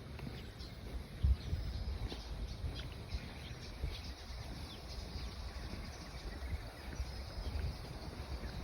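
Several small birds chirping with short, high calls, over a low rumble of wind on the microphone.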